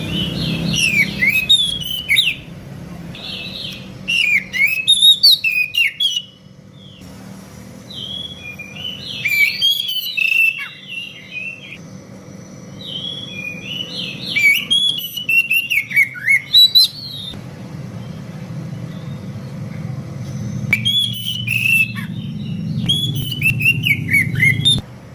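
Oriental magpie-robins (kacer) singing back and forth in five bursts of quick, varied whistled phrases with short pauses between them, over a steady low rumble.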